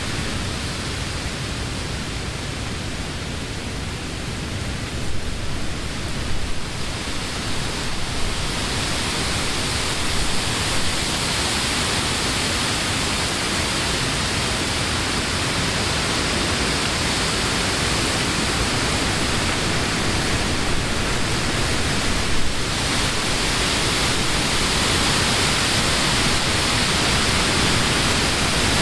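Wind blowing through the leaves of trees, a steady rushing that swells stronger after about eight seconds, with brief low buffets of wind on the microphone.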